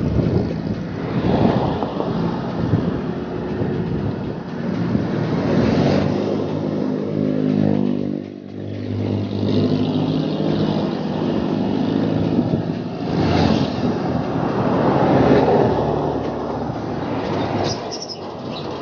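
Motor vehicles passing on the road, with a steady traffic rumble. One vehicle's engine hum is heard clearly as it goes by around the middle.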